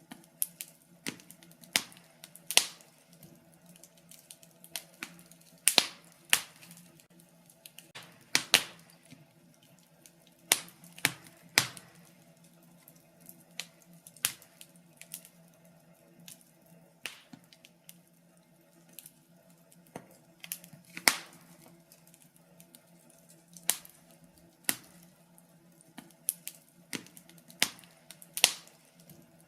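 Wood fire crackling in a fireplace: irregular sharp pops and snaps of varying loudness over a faint steady background.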